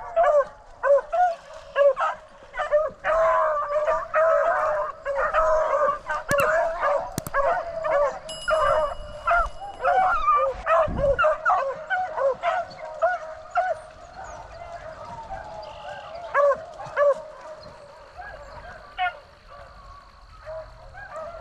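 A pack of beagles baying together on a rabbit's trail, many short overlapping calls over one another; the chorus thins out after about fourteen seconds.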